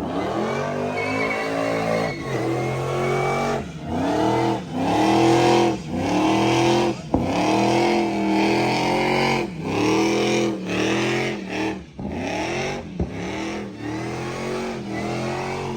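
Drift car engine revving hard, its pitch climbing and dropping again about once a second, with brief cut-outs between the revs.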